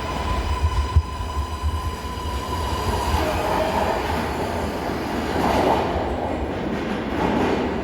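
MARTA rapid-transit train running along the station track: low rail rumble with a few knocks about a second in, and a steady high whine that fades out about three seconds in, followed by louder grinding noise from the wheels on the rails.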